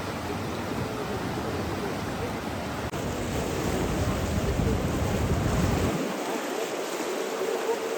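Continuous rushing water noise. About six seconds in, the deep low rumble drops out abruptly and the sound turns thinner and brighter.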